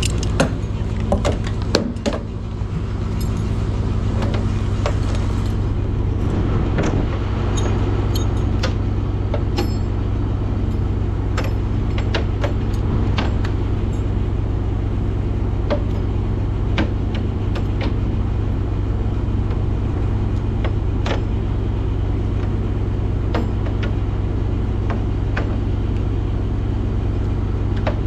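A vehicle engine running steadily at a low, even pitch, with scattered light clicks and rattles throughout.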